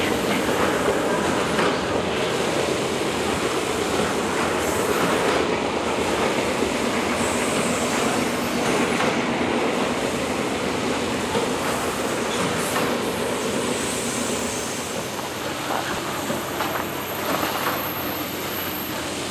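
Loaded coal cars of a freight train rolling past: a steady rumble of steel wheels on rail with scattered clicks, easing off slightly near the end.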